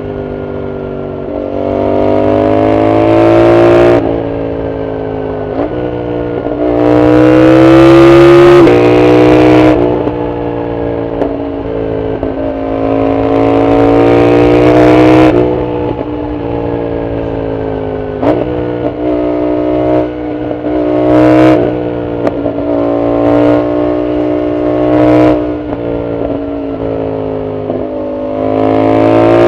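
Yamaha MT-07's 689 cc CP2 parallel-twin engine through a full Arrow exhaust, accelerating hard in repeated pulls. The pitch climbs in each gear and drops suddenly at each upshift, with sharp pops at several of the shifts. The throttle eases off between the runs.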